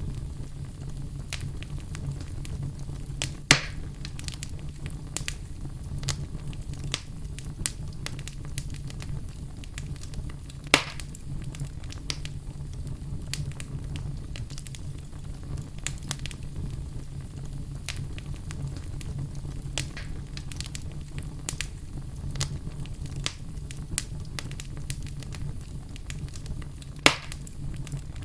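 Wood fire in a fireplace crackling steadily, with frequent small snaps over a low rumble and three louder pops, about three and a half seconds, eleven seconds and twenty-seven seconds in.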